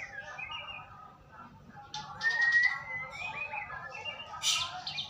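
White-rumped shama (murai batu) singing: clear whistled phrases, the loudest a long slightly rising whistle about two seconds in, mixed with short sharp high notes.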